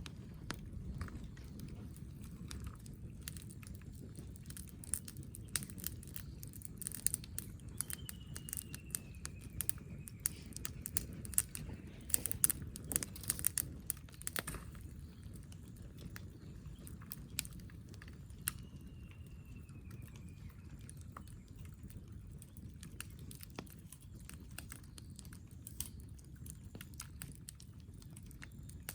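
Wood campfire crackling and popping, busiest about a quarter to half way through, over a steady low rumble. A bird gives a short falling whistle twice.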